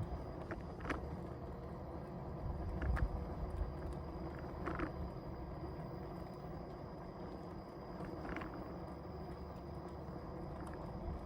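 Ride noise from an InMotion E20 electric unicycle rolling on pavement: a steady low rumble of wind and tyre noise with a faint, steady high whine. A few light clicks come and go.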